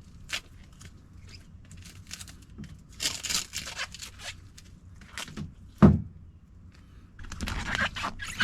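Handling noises of work on an attic air-handler: scattered rustling, scraping and light clicks, with one sharp knock about six seconds in.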